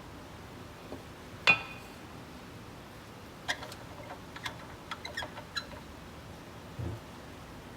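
Workshop handling sounds: a sharp knock with a short ringing tone about a second and a half in, then a quick run of light clicks and taps, and a dull thump near the end, as tools and wood pieces are picked up and set down.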